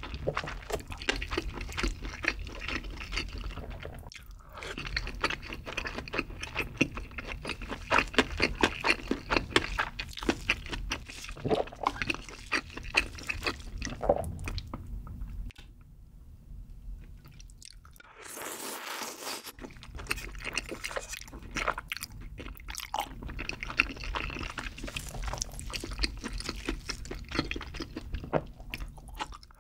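Close-miked eating of chewy rice cakes and pasta in creamy carbonara sauce: rapid wet chewing, smacking and sticky mouth clicks. The sound thins to a quieter pause past the middle, then a brief airy rush before the chewing resumes.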